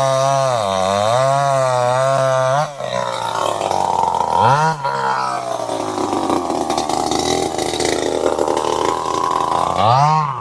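Chainsaw engine idling with a wavering note, then about three seconds in the throttle opens and it runs at high revs. It drops back toward idle near the end.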